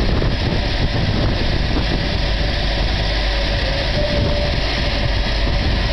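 Railway train running, a steady loud rumble with hiss, with a faint thin tone coming in about four seconds in.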